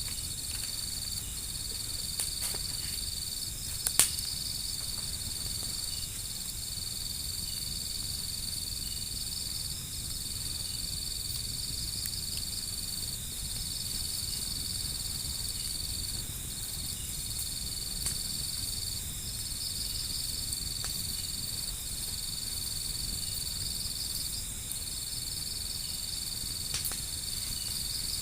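Crickets trilling steadily at a high pitch, the trill breaking off briefly every two to three seconds, over a wood fire that gives a few sharp pops, the loudest about four seconds in.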